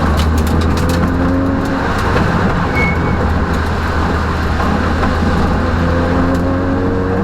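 Peugeot rally car's engine running at a steady pitch, heard from inside the cabin, with a few clicks or knocks in the first second and a half.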